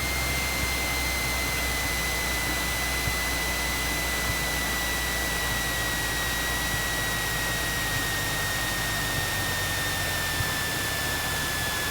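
Light aircraft cockpit noise while landing: steady engine and airflow noise, with a high thin whine that slowly sinks in pitch throughout. The low engine note fades near the end.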